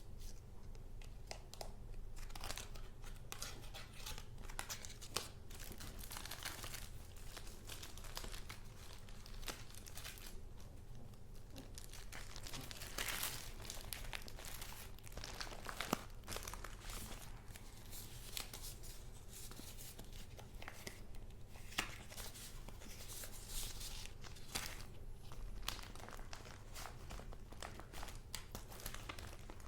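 Paper goods of a handmade junk journal being handled and leafed through, crinkling and rustling irregularly with small sharp clicks, over a faint steady low hum.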